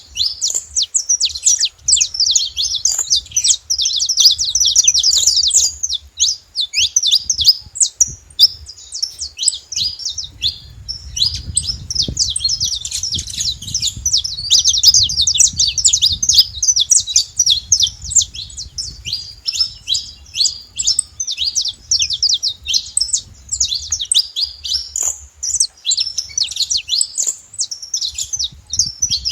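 Saffron finches singing and calling in a dense, continuous stream of quick high chirps, with a low rumble underneath that is strongest in the middle.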